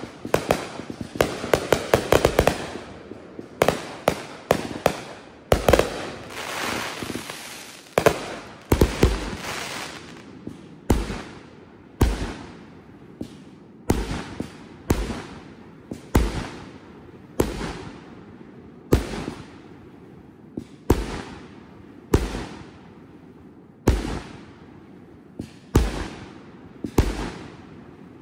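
Firework cake firing its shots in sequence. A dense crackle and rapid pops come first, then sharp single bangs about once a second, each fading quickly.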